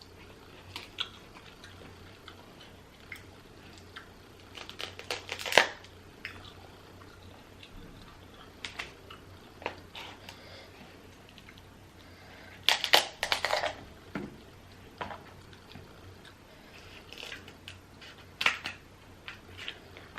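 Hard seafood shells, king crab legs among them, being cracked and cut open by hand: scattered sharp cracks and clicks, with busier clusters about a quarter of the way in, about two-thirds in, and near the end.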